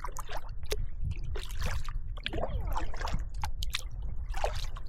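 Kayak paddling: the paddle blades dip and splash in the water with trickling drips between strokes, over a steady low rumble.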